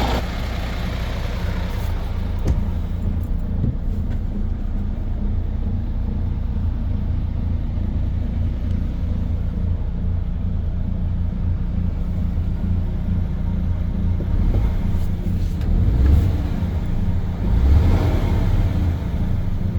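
Diesel engine of a MAN TGS 35.420 truck running with a deep, steady rumble that swells briefly twice near the end.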